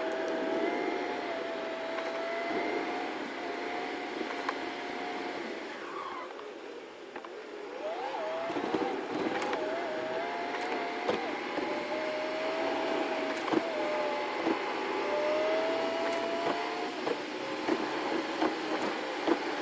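Car driving through snow: steady running noise with a wavering whine that drops out and comes back several times, and a few light clicks.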